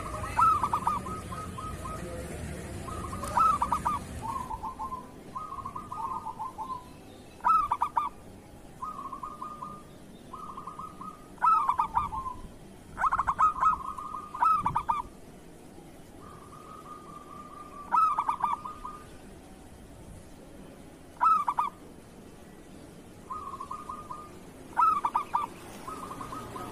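Zebra doves (perkutut) cooing: short level coos alternate with louder, rapidly stuttering coos, a call every few seconds.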